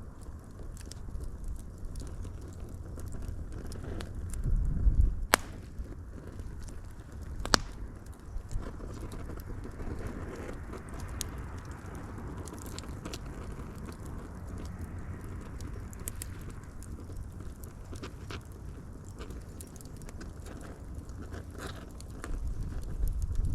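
Wood fire burning with a low rumble of flame and scattered crackles, and two sharper pops about five and seven and a half seconds in. The flame swells briefly twice, once around four to five seconds in and again near the end.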